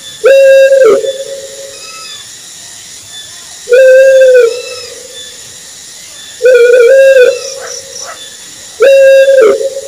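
Owl hooting: four hollow, even-pitched hoots about three seconds apart, each cut short with a slight drop and followed by a ringing echo.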